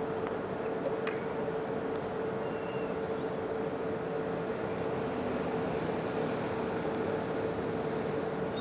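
Microwave oven running: a steady hum with one constant tone over an even hiss.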